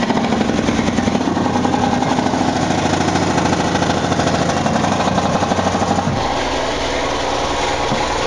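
Supercharged Ford 4.6-litre V8 with a Vortech centrifugal supercharger running steadily, heard up close in the open engine bay as a loud, fast, even pulsing.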